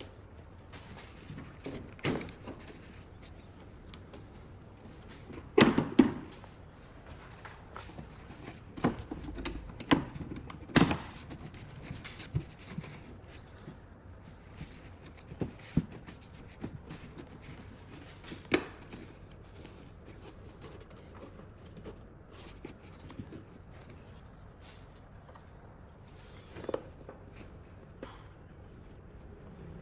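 Scattered sharp knocks and clicks of metal tools and parts being handled, about a dozen over the stretch, the loudest a close pair about six seconds in, with a faint steady background between them.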